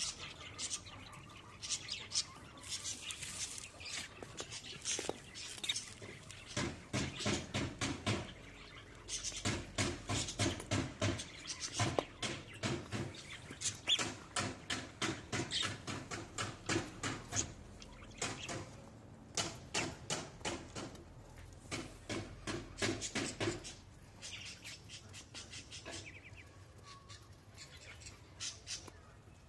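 Domestic birds calling and chirping in quick, rapidly repeated runs, busiest through the middle and thinning toward the end.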